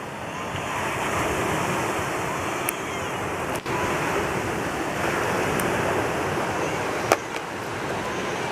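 Sea waves washing on the shore, a steady rushing surf, with a sharp click about seven seconds in.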